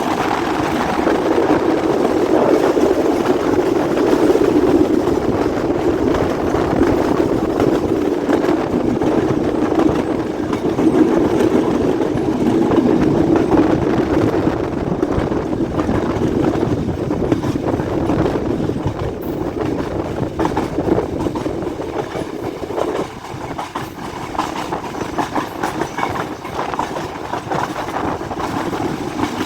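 Passenger express train running along the track, heard from aboard: a steady rumble and rattle of wheels and carriages.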